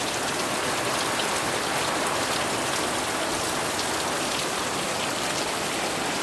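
Steady rain falling and pattering on surfaces, with faint scattered drop ticks.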